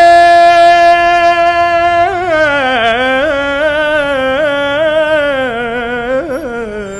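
A man singing solo in Arabic classical style, holding one long note for about two seconds. He then winds into an ornamented melismatic run that drifts gradually lower in pitch.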